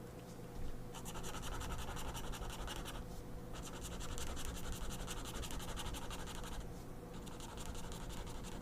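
Ink pen scratching across paper in quick scribbling strokes, in three runs with short pauses between them.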